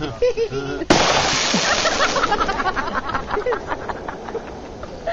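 A firework shell bursts with a sharp bang about a second in, followed by a dense crackle of many small pops that thins out and fades over the next few seconds.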